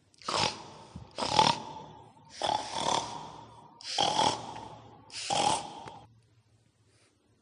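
Five pig-like grunts, each under a second long, spaced about a second apart: the sound given as that of a babi ngepet, the were-pig of Indonesian ghost lore.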